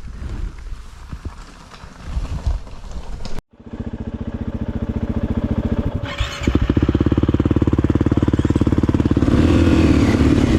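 Single-cylinder four-stroke engine of a KTM 500 EXC-F dirt bike running with an even pulse. It gets louder about six seconds in and then holds steady. Before it, irregular knocks and rustling break off abruptly.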